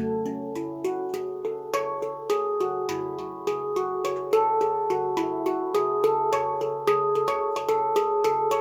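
Luna Eira tuned steel drum played by hand: a steady stream of struck notes, several a second, each ringing on and overlapping into a melodic pattern.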